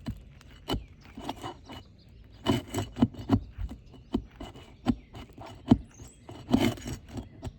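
Irregular scrapes and sharp knocks of a tool working under asphalt roof shingles, loosening the nails of a damaged shingle to remove it.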